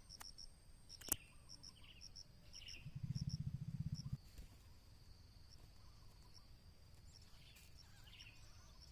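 Crickets trilling steadily with a few faint, short bird chirps. A sharp click comes about a second in, and a low, rapidly pulsing buzz, the loudest sound here, runs for about a second around three seconds in.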